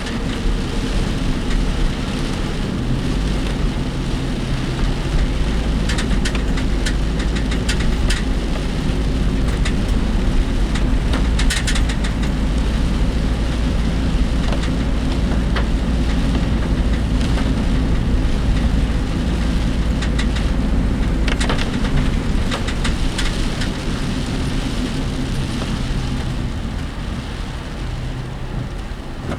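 Cabin noise of a work vehicle driving in typhoon rain: steady engine and road rumble with rain on the body and scattered rattles from the vehicle. The deep rumble drops away about three-quarters of the way through.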